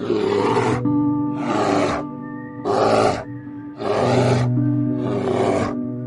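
A big cat roaring again and again, about five rough, rasping calls in a row, over background music with steady held notes.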